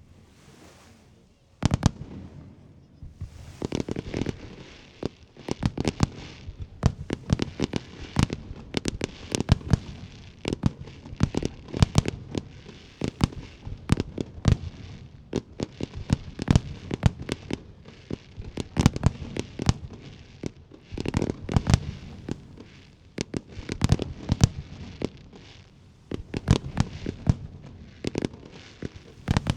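Fireworks display: aerial shells bursting in a rapid, dense series of sharp bangs and crackles, starting about two seconds in after a brief quiet spell and continuing with many reports a second.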